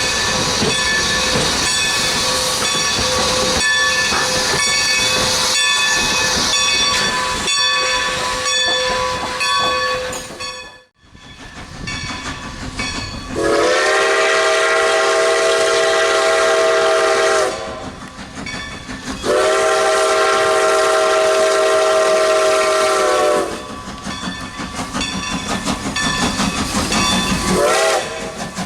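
Steam locomotive No. 90, a 2-10-0, working with a steady hiss. After a break it sounds its multi-chime steam whistle: two long blasts of about four seconds each, then a short one near the end. This long-long-short run is the opening of a grade-crossing whistle signal.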